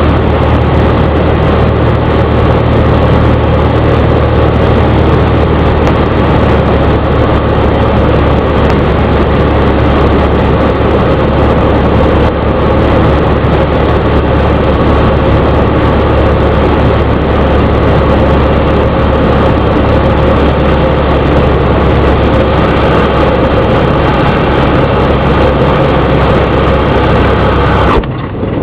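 Cessna 172's piston engine and propeller running steadily during the landing approach, a loud continuous drone. Its low note shifts slightly about six seconds in, and the sound dips briefly near the end.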